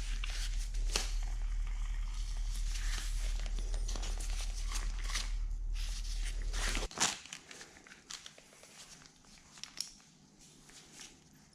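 Light clicks, clinks and rattles of metal parts and tools being handled. A steady low electrical hum underneath stops abruptly about seven seconds in, leaving only faint handling noises.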